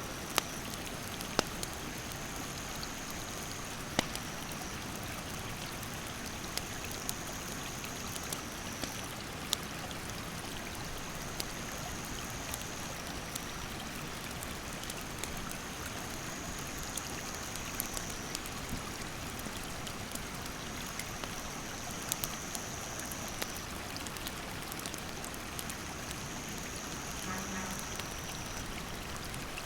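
Steady rush of a mountain stream, with scattered sharp pops and crackles from a wood campfire. An insect calls in a high, thin tone in stretches of a few seconds, stopping and starting again.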